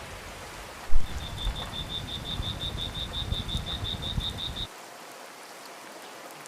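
A small animal calling in a fast, even trill of high chirps, about six a second, over a low rumble, for about three and a half seconds before it cuts off abruptly to a quieter hiss.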